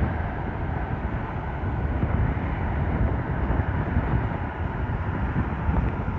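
Jet airliner on landing approach, its engines giving a steady low rumble, with wind buffeting the microphone.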